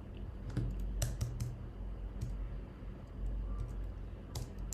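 Computer keyboard being typed on, a few scattered keystrokes clustered about a second in and again near the end, over a low steady hum.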